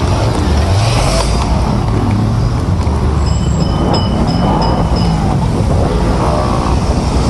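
City street traffic: cars and buses running and passing, with engine pitch rising and falling over a steady road rumble. A run of short high beeps comes in about the middle.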